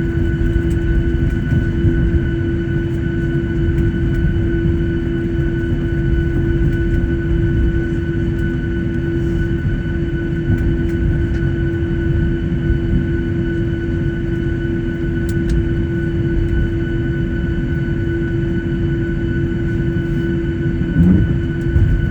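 Cabin noise of a Boeing 737-800 taxiing on the ground after landing: a steady low rumble from the CFM56 engines at idle, with steady whining tones over it, and a brief bump near the end.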